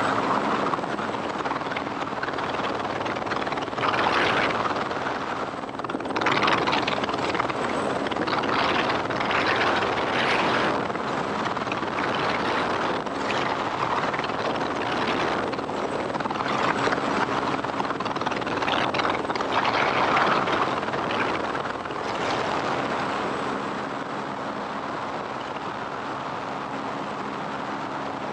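Helicopter engine and rotor noise: a steady hum under a dense rush of noise that swells and eases every few seconds.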